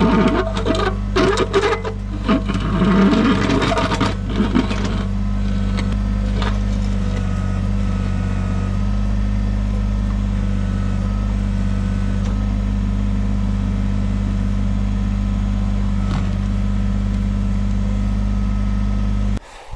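Kubota BX23S compact tractor's three-cylinder diesel running steadily, with the backhoe bucket clanking and scraping on rock through the first few seconds. The engine sound cuts off abruptly near the end.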